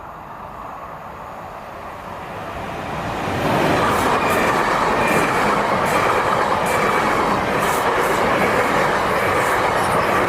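South Western Railway electric multiple unit approaching and passing close by: the rush grows, then about three and a half seconds in becomes a loud steady rush with repeated clicks of the wheels over the track.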